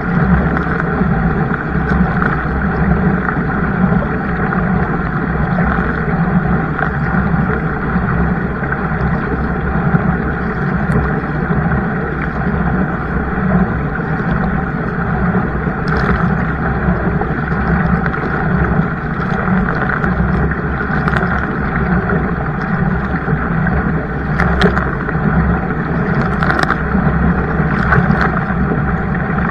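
Steady rushing noise of a kayak moving on the water, with a few faint ticks in the second half.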